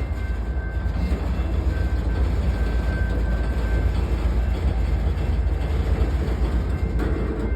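Freight train rumbling steadily, with a faint steady whine above the rumble.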